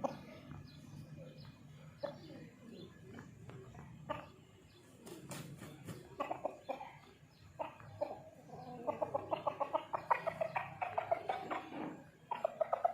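Chickens clucking, with a fast run of short, evenly repeated clucks in the second half.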